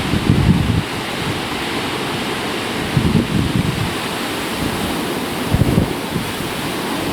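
Hurricane wind blowing steadily. Three gusts buffet the microphone with a low rumble: at the start, about three seconds in, and again before six seconds.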